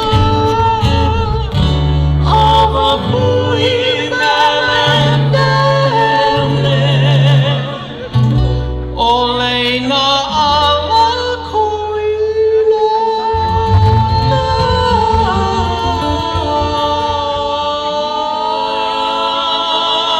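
Live Hawaiian song: voices singing in harmony over plucked acoustic guitar and bass, with long held notes wavering in vibrato near the end.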